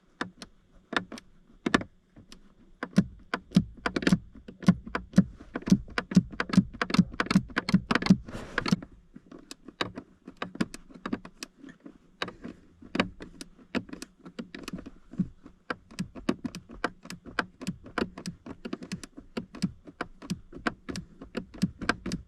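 Ratchet wrench with a short 8mm socket clicking in quick irregular runs of strokes as bolts are tightened down, busiest in the first half.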